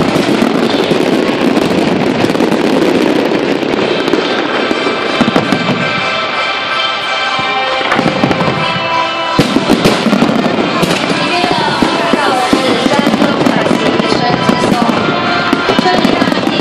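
Fireworks display going off continuously, dense crackling and popping with louder bangs about five seconds in and again around nine to eleven seconds.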